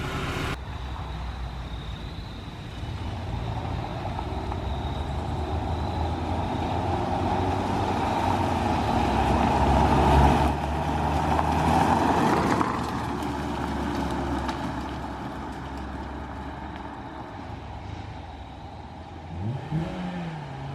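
Honda Prelude's H22A four-cylinder engine running, growing louder toward the middle and then easing off as the car is moved, with a short rev near the end.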